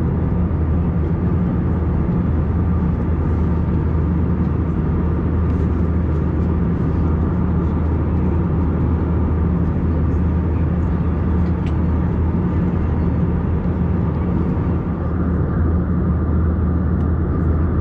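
Steady cabin drone of an Airbus A321-200 in cruise: engine and airflow noise with a constant low hum and a faint steady high whine.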